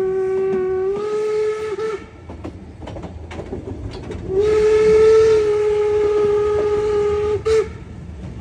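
Steam locomotive's whistle blowing two long blasts: the first ends about two seconds in, and the second runs for about three seconds from a little past four seconds in, ending with a short toot. Between the blasts the train rumbles and clatters on the rails.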